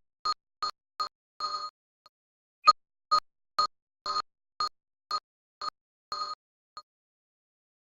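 A rhythmic series of short electronic beeps, all at the same pitch, about two a second, with a pause of about a second after the first few.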